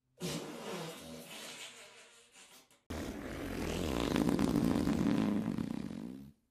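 Two fart sound effects one after the other: the first starts a moment in and trails off, then a longer, louder one with a wavering buzz begins about three seconds in and stops suddenly near the end.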